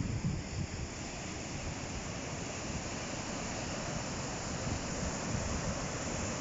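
Ocean surf washing steadily onto the shore, swelling gently, with wind buffeting the microphone in low rumbles near the start.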